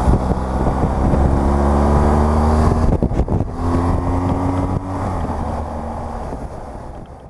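BMW R1200GS Adventure's flat-twin boxer engine running under way, heard through a microphone inside the rider's helmet with wind noise. Its pitch rises, breaks about three seconds in as for a gear change, rises again, then the engine eases off and grows quieter near the end.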